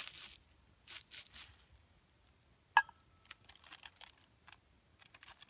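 Rustling and crinkling of handled gear, with one sharp clink just under three seconds in that rings briefly, then a few small ticks.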